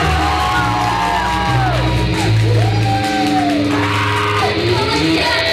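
Live rock band playing: bass guitar notes under electric guitar, with high notes that glide up and down in arcs.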